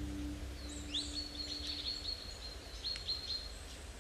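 A small songbird singing: several phrases of short high chirps with quick upward-sweeping notes, over faint forest background noise.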